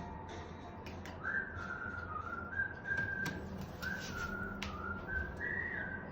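A person whistling a melody in short phrases, sliding up into notes and stepping between them, over a soft, regular accompaniment.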